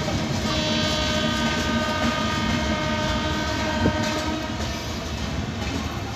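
Train horn sounding one long steady note for about four seconds over the continuous rumble of a train moving on the track, with a single sharp click near the end of the horn.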